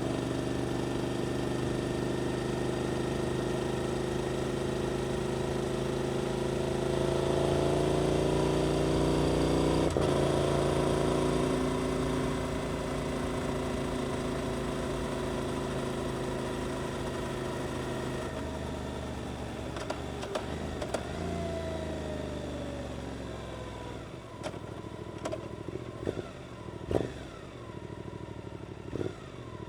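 Suzuki GSX-8S parallel-twin motorcycle engine running through an Arrows aftermarket exhaust under way: a steady pull, the note rising for a few seconds about a quarter of the way in, then holding. In the second half the throttle eases off and the note falls, with a few sharp cracks near the end.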